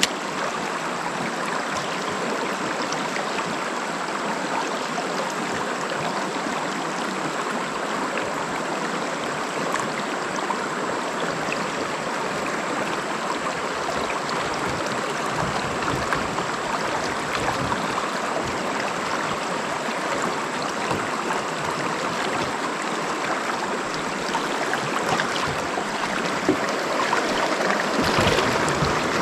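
Steady rush of flowing water in a shallow creek.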